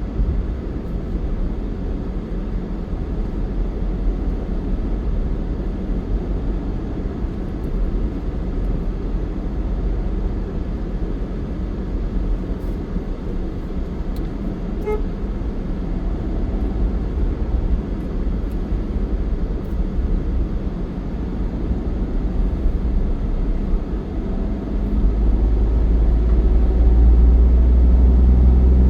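A motor vehicle travelling on a road: a steady engine and road rumble that grows louder over the last few seconds, with a brief beep about halfway through.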